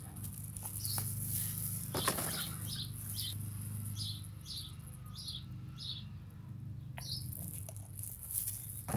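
A small bird chirping a series of short, high, evenly spaced notes, about two a second, over a steady low hum, with a few soft clicks.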